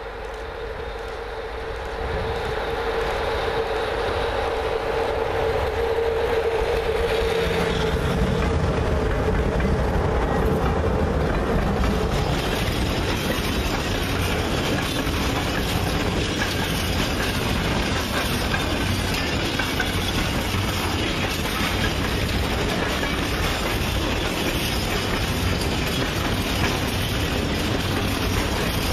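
Electric freight locomotive, a GFR class 40, hauling tank wagons up a grade: a steady whine that grows louder as it approaches, then from about 8 seconds in the loud rolling rumble and clickety-clack of the tank wagons' wheels passing close by.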